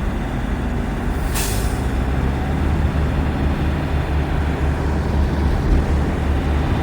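Semi-truck running, a steady low engine and road rumble, with a short high hiss about a second and a half in.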